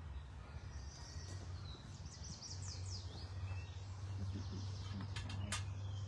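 Wild songbirds singing in the background: a quick run of high, falling notes about two seconds in, with fainter high notes before it. A steady low rumble of outdoor noise lies beneath, and a few sharp clicks come near the end.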